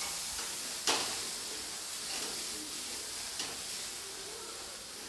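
Boiled chana dal sizzling in hot oil in a kadhai while it is stirred with a wooden spatula, with a sharp knock of the spatula against the pan about a second in.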